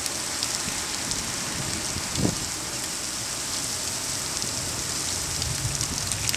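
Heavy wind-driven rain pouring onto a wet paved lot: a steady, dense hiss of drops splashing into standing water. A brief low thump comes about two seconds in.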